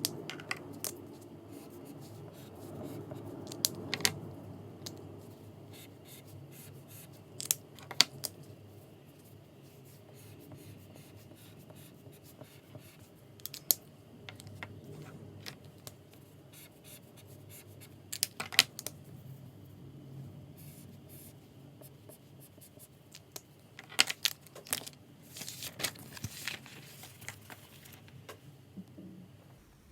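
Desk handling sounds while studying: scattered light clicks and taps of stationery being picked up and set down, with some paper rustling, over a low room hiss. The taps are busiest near the end.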